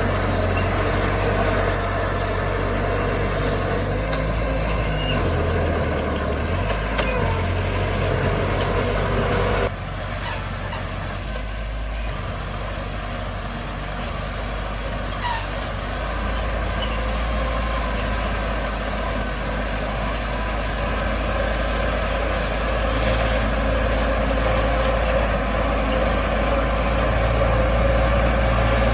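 Heavy diesel earthmoving machinery running with a steady, low engine drone. About ten seconds in the sound drops abruptly quieter, then slowly builds back up toward the end.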